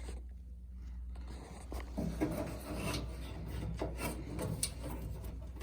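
Handling noises: irregular rubbing and scraping with scattered light knocks, over a low steady hum.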